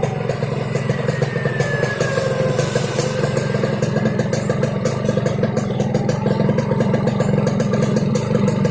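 Yamaha RX-King single-cylinder two-stroke engine running steadily, its exhaust giving the raspy 'ngorok' (snoring) note.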